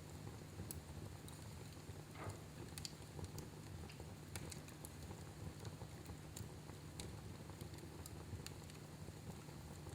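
Wood fire in a fireplace crackling quietly: scattered small pops and ticks every second or so over a faint, steady low background.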